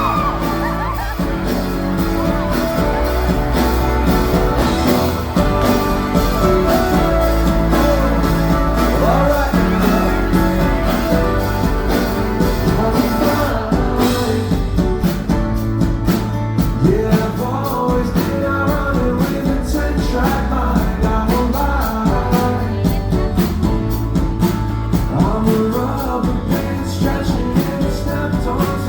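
Live pop-rock band music with a male lead vocal, drums and guitar, recorded from the audience at a concert, with the crowd faintly audible.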